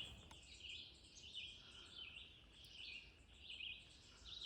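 Faint dawn chorus of several songbirds: many short, high chirps and trills overlapping without a break.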